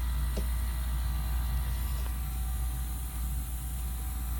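A Jun-Air 15-litre, 0.6 hp, 3500 rpm air compressor runs steadily with a low hum and a few steady tones as it pumps up its tank.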